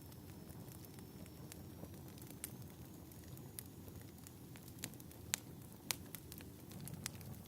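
Fireplace fire crackling: a low steady rumble with irregular sharp pops and snaps, a few louder ones in the second half.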